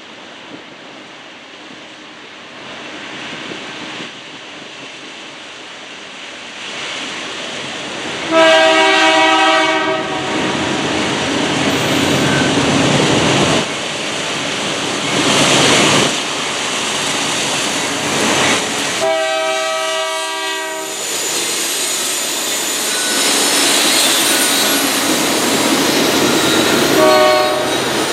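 Diesel freight train approaching with its rolling noise growing steadily louder, its locomotive's multi-chime air horn sounding a long blast about 8 seconds in, another about 19 seconds in, and a short one near the end.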